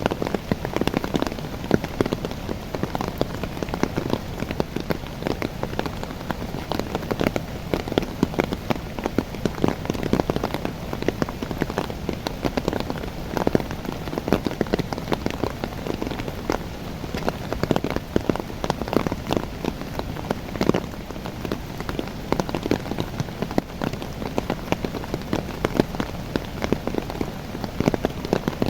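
Steady rain falling on the leaves of young coffee trees: a dense, even patter of countless drops.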